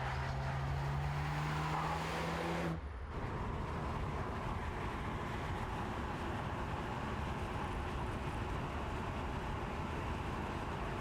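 Mercedes-AMG C43's 2.0-litre turbocharged four-cylinder engine pulling with a slowly rising note for nearly three seconds, then a sudden cut to steady engine and road noise from the car cruising.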